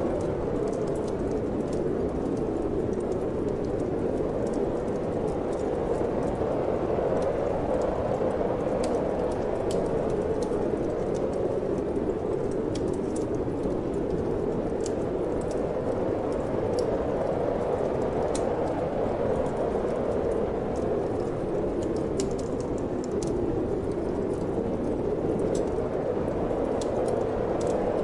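Steady wind noise with a fire crackling over it: scattered small sharp pops and snaps from burning wood in a fireplace.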